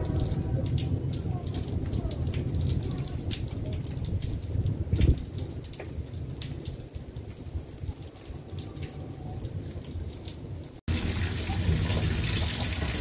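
Rain shower falling, with single drops landing close by as sharp ticks over a steady hiss of rain. About eleven seconds in, the sound cuts and the rain comes back louder and fuller.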